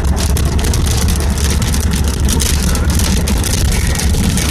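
Strong wind of a storm front buffeting the microphone: a loud, steady rushing noise over a heavy low rumble.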